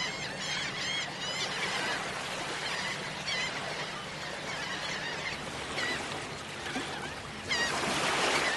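Birds calling repeatedly in short, bending cries over a steady rushing background, with the rush swelling louder near the end.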